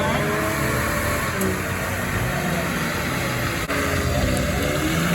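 Car engine revving hard during a burnout, its pitch rising and falling repeatedly over a steady hiss of spinning tires.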